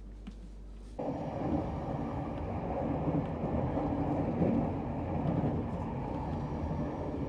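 Spirit of Queensland passenger train running along the track: a steady, dense rumble that cuts in abruptly about a second in, after a quieter low hum.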